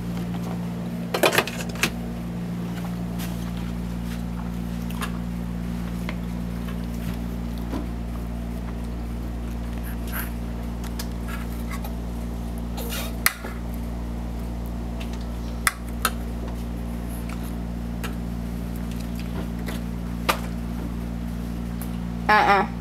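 Refrigerator running with a steady low electrical hum, with a few scattered light knocks and clatters of items being handled in it.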